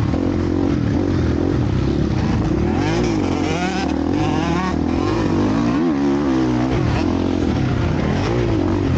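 Motocross bikes racing on the track, their engines revving up and down again and again over a steady low hum.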